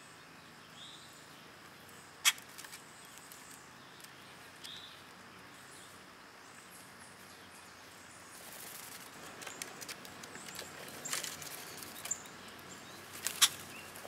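Chipmunks and a grackle foraging on seed husks and dry litter: soft rustling and scratching with sharp clicks and cracks, one about two seconds in and a busier cluster over the last few seconds. Two faint short chirps are heard early on.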